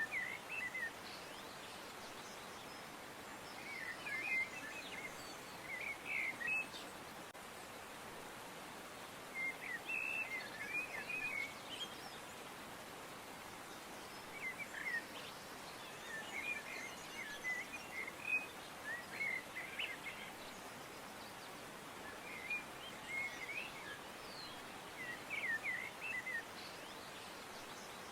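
Small birds chirping in short clusters of quick notes every couple of seconds, over a steady faint hiss of outdoor background noise.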